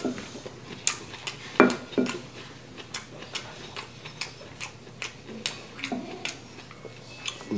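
Close-up eating sounds: irregular wet clicks of chewing a mouthful of japchae noodles and rice, with a wooden spoon scraping and tapping in a ceramic bowl. The loudest knock comes about a second and a half in.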